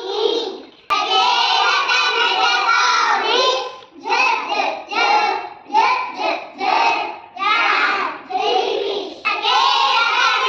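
Young children singing phonics letter sounds in short rhythmic phrases.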